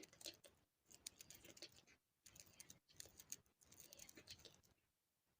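Faint ASMR clicking and tapping sounds, made in quick clusters of crisp clicks about once a second with short pauses between them.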